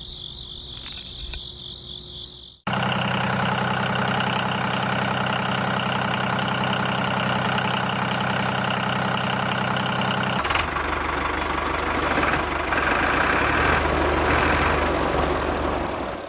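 Crickets chirping, then after an abrupt cut a motor running steadily. About ten seconds in, its sound changes to a rougher, noisier run.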